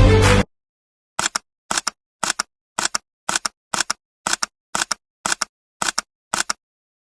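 Camera shutter clicks: eleven quick double clicks, about two a second, in otherwise dead silence. Music cuts off abruptly about half a second in, just before them.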